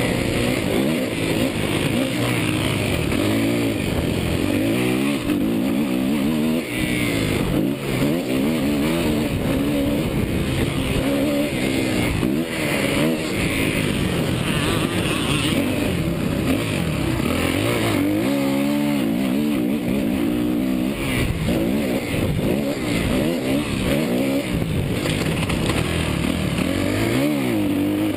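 Motocross bike engine revving up and down over and over, its pitch climbing and dropping every second or two as the throttle is worked and gears change on the track.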